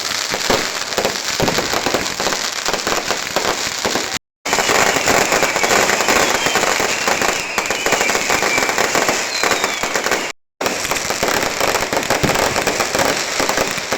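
Fireworks crackling in a dense, continuous rattle of pops, with a falling whistle through the middle. The sound cuts out completely for a moment twice.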